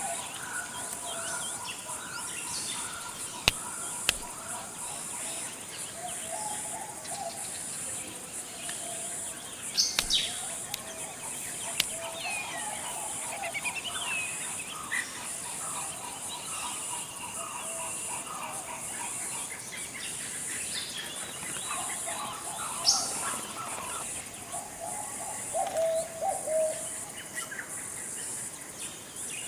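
Tropical forest ambience: many birds chirping and calling throughout over a steady high-pitched hiss. A few sharp clicks come about three and a half, four and ten seconds in.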